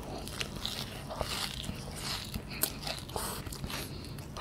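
Close-miked biting and chewing of a cheese kunafa: small irregular crunches and mouth clicks from the crisp shredded-pastry crust and melted mozzarella.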